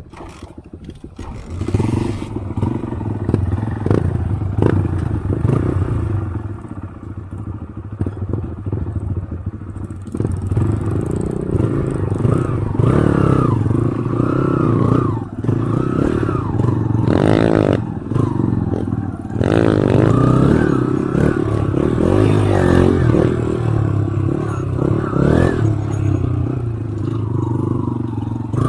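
Motorcycle engine running over rough trail, its note rising and falling as the throttle is worked, with knocks and rattles from the bike.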